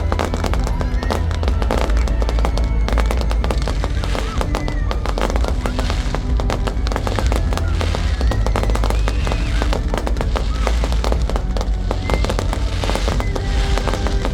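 A fireworks display with continuous rapid crackling and popping bangs, over music with a heavy, steady bass.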